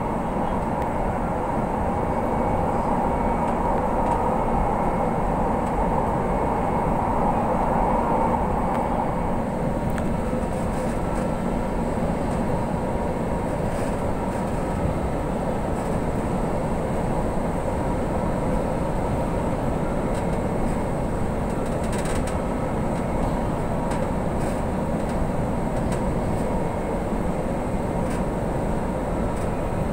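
Manila MRT Line 3 light rail train running, heard inside the passenger car: a steady rumble and hum of wheels and motors. A higher hum is a little stronger in the first several seconds, then settles.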